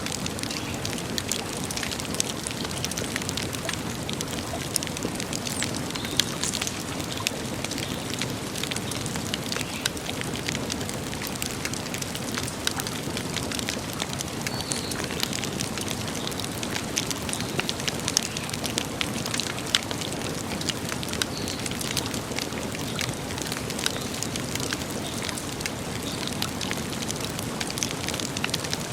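Wood campfire burning steadily, with dense crackling and frequent sharp pops and snaps over a low, even hiss of the flames.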